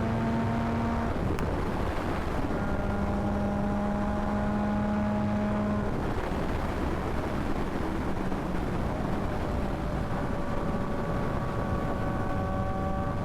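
Yamaha MT-09 inline-three engine running at steady cruising revs under a constant rush of wind on the microphone. The engine note drops about a second in, returns a little lower, fades back around six seconds, and settles again near the end.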